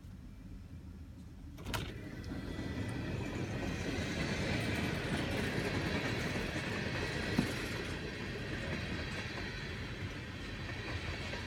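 Freight cars rolling past, steel wheels running on the rails: muffled at first, then after a sharp click about two seconds in, much louder and clearer as the car's window opens. One sharper knock near the middle.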